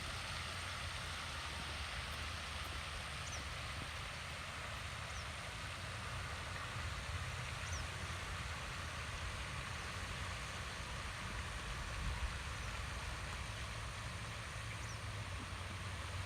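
Steady outdoor ambience: a low rumble under an even hiss, with faint short high chirps every second or two.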